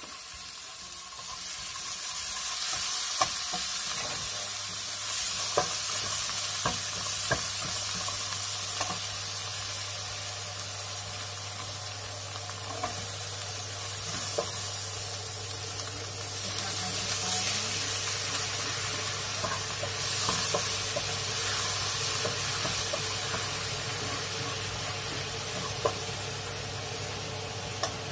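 Shallots and green chilli sambal sizzling in hot oil in a non-stick wok while a spatula stirs and scrapes them, with occasional sharp taps of the spatula on the pan. A steady low hum comes in about four seconds in.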